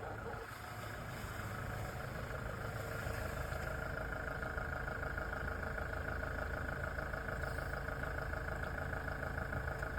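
Toyota Hilux's diesel engine running steadily at low revs as the pickup rolls down an icy road. It grows slightly louder over the first few seconds, then holds even.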